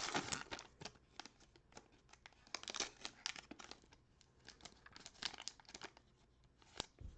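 Plastic cello wrapper of a trading-card pack being torn open and crinkled: a run of short, irregular crackles, louder about half a second in, near three seconds and around five seconds.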